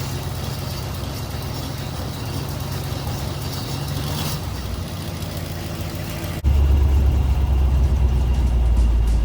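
A 1951 Ford F1 pickup's 239 flathead V8 running steadily while the truck drives. About six seconds in, it cuts abruptly to a louder, deeper sound.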